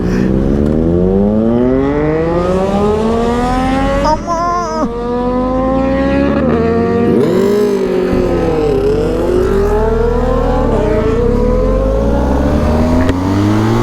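Motorcycle engine accelerating hard, its pitch climbing steadily, breaking briefly at a gear change about four seconds in, dipping around the middle and climbing again towards the end.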